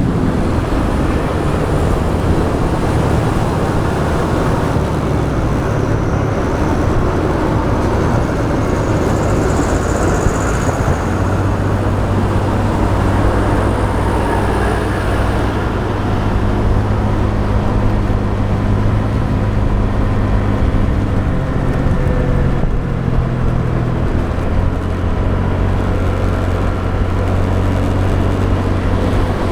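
Motorbike engine running steadily under way, its hum stepping in pitch a few times with throttle changes, over road and wind noise.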